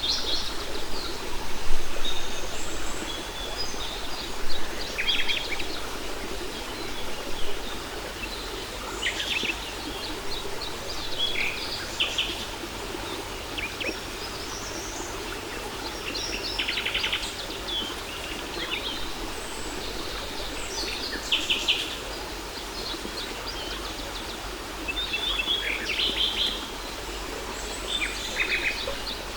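Small birds chirping and trilling in short, scattered phrases over the steady rush of a waterfall.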